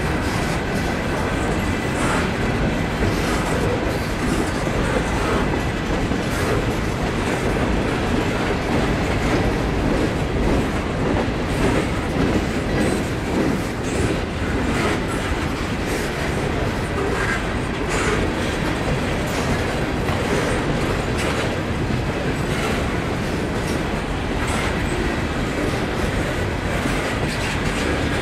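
Norfolk Southern coal train's open-top coal cars rolling past at a steady speed: a constant rumble of wheels on rail with irregular clickety-clack clicks as the wheels cross rail joints.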